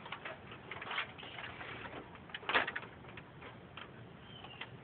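Plastic toy train and track clicking and knocking as the train is set back onto the rails, with irregular light clicks and one louder knock about two and a half seconds in.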